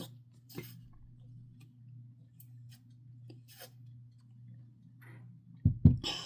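Drinking from a just-opened plastic water bottle: scattered faint crinkles and clicks of the plastic, then two heavy low thumps close together near the end, over a steady low hum.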